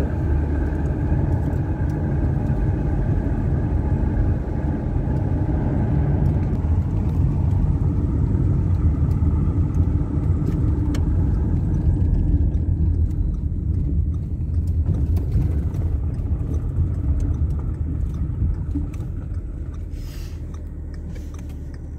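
Car driving along a road: steady low engine and tyre rumble, fading gradually over the last few seconds.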